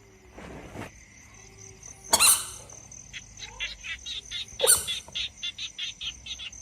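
A steady high insect trill with a fast run of short chirps, about five a second, cut across twice by a loud sudden animal call.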